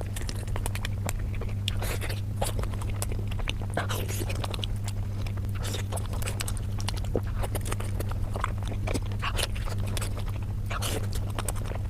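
Close-miked chewing and biting of pork momos (steamed dumplings): a dense run of quick wet mouth clicks and smacks, sped up, over a steady low hum.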